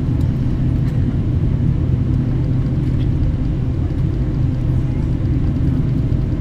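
Boeing 777-300ER's GE90 turbofan engines running steadily: a constant low rumble with a faint steady hum above it.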